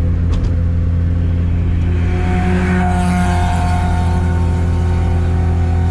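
Turbocharged Chevette four-cylinder engine droning steadily while driving, heard from inside the car. About two seconds in, a whine with several steady pitches swells up, loudest about a second later, then eases off. It is the new noise the occupants take for the turbocharger breaking.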